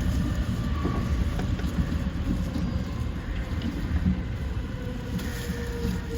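Running noise of a Yokosuka Line E235 series electric train heard from inside the train: a steady low rumble. A faint thin whine comes in about five seconds in.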